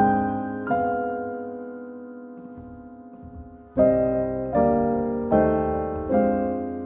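Background piano music: slow, soft chords struck and left to ring and fade, with a long held chord and then four chords in close succession in the second half.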